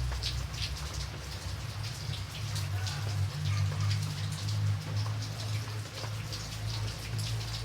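Steady rain, with many separate drops pattering sharply over a constant low rumble.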